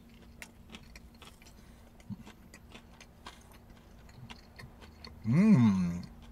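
Mouth-closed chewing of a fried chicken tender, heard as quiet, irregular wet clicks. About five seconds in comes a loud hummed "mmm" of under a second that rises and then falls in pitch.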